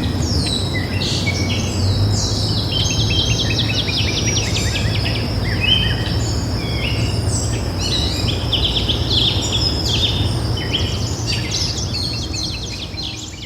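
Many small birds chirping and singing at once, a dense chorus of quick high overlapping notes and trills, over a steady low rumble. The sound starts to fade out near the end.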